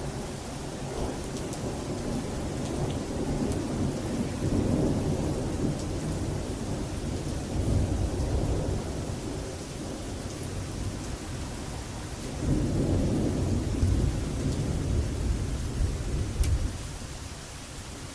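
Thunder rolling in two long low rumbles over steady heavy rain: one swelling a few seconds in, the second starting about twelve seconds in and cutting off suddenly near the end.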